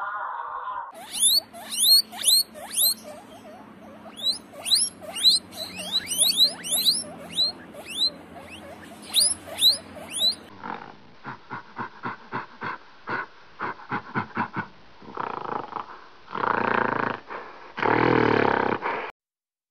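Guinea pigs squeaking: many quick, high, rising squeaks in rapid succession. After about 11 seconds come gorilla vocalisations: a run of short grunts, then two long, loud roar-like calls near the end.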